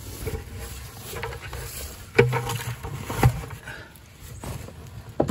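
Light rain beginning to sprinkle, scattered drops pattering, with two louder knocks about two and three seconds in.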